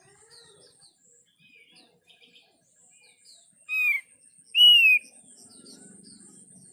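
Bird-lure recording of small songbirds chirping rapidly, with two loud slurred calls in the middle. A thin steady high whine runs behind it, and a faint low hum comes in near the end.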